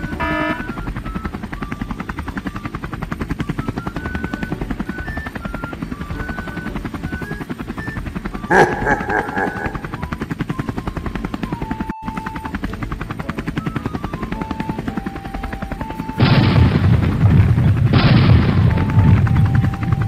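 Toy electronic sound effects: a fast, even helicopter rotor chop with a simple tune of single beeping notes over it, a short louder blare about eight seconds in, and loud crackling gunfire for the last four seconds.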